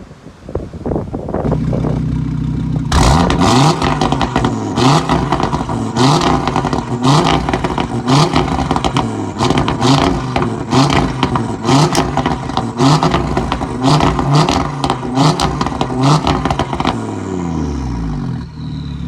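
Audi RS3's turbocharged 2.5-litre five-cylinder engine through a custom sport exhaust: it idles, then is revved in quick repeated throttle blips about every 0.7 s with sharp cracks from the exhaust, before the revs fall back near the end.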